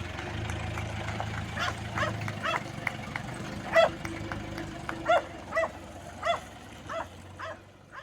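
A dog barking about a dozen times in an uneven series, roughly two barks a second, over the steady low hum of an idling vehicle engine.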